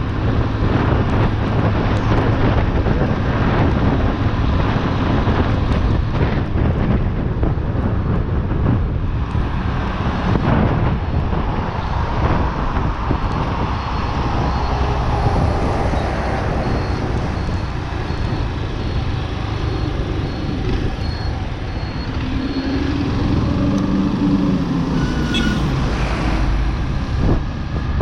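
Chopper Road 150 motorcycle's single-cylinder engine running steadily while riding, with wind rushing over the action camera's built-in microphone and road traffic around. Past the three-quarter mark a second engine note briefly rises and falls.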